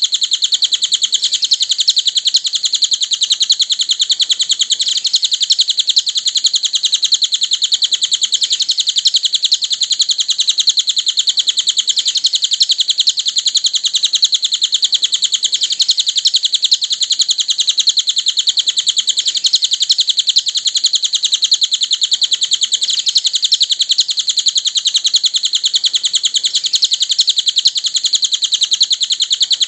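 Song of the cililin, a small songbird, as a masteran tutoring recording: an unbroken, rapid, very high twittering.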